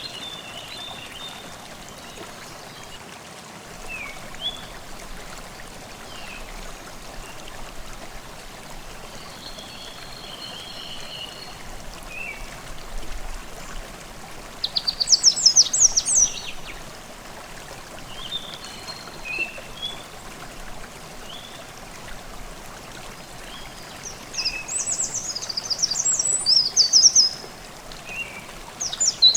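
Forest stream babbling steadily, with songbirds singing over it: scattered short chirps throughout, and loud rapid trilling phrases about halfway through and again near the end.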